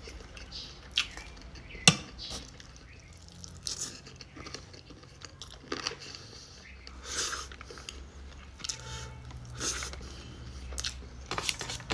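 Close chewing and mouth sounds of a person eating rice and curry by hand, with soft crunches and a few sharp clicks now and then, over a low steady hum.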